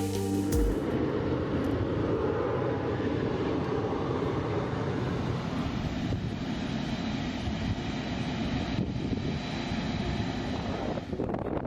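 Steady rushing noise of aircraft engines running, taking over as background music cuts off within the first second.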